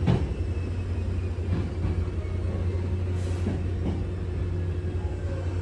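Hankyu 7000 series train heard from inside the car while running: a steady low rumble of the wheels and running gear, with two sharp knocks right at the start and a faint thin high whine above it.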